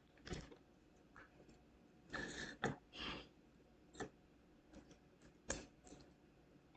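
Faint scattered clicks and taps with a couple of brief rustles, from hands placing small glued rhinestones and craft pieces.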